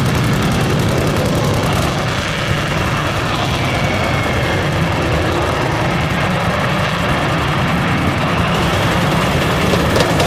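Steady rumbling wind noise buffeting the microphone, heaviest in the low end and flickering unevenly.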